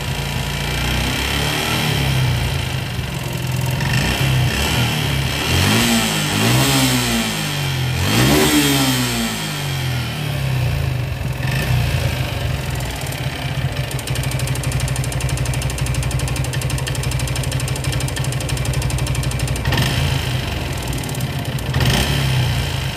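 Suzuki Gixxer FI single-cylinder motorcycle engine idling, blipped up and back down about three times a few seconds in, then settling to a steady idle. The engine makes the bad noise that came on suddenly after it ran short of oil.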